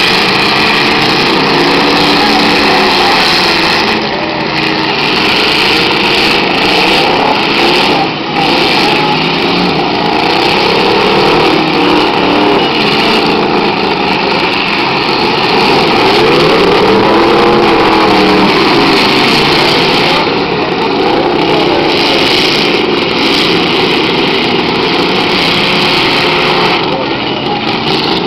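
Many demolition derby cars' engines running hard at once, revving up and down together in a loud, continuous din.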